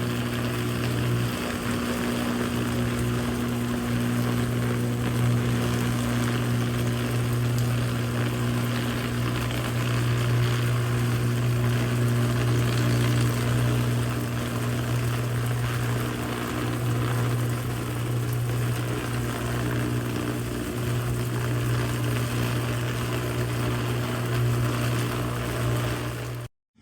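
A steady mechanical drone, like an engine running: a strong low hum with a few steady tones above it over a hiss, holding level throughout with no change in pitch.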